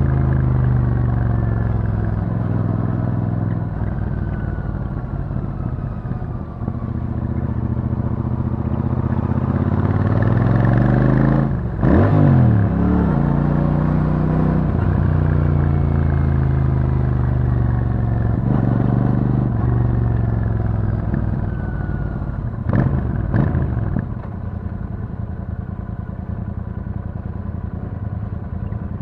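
Royal Enfield Super Meteor 650's 650 cc parallel-twin engine through its stock exhaust, ridden at low speed. Its pitch falls over the first few seconds as the bike slows, then climbs again towards a brief sharp break about twelve seconds in. Short rises in pitch come around eighteen and twenty-three seconds, and the engine settles to a lower, steady beat near the end.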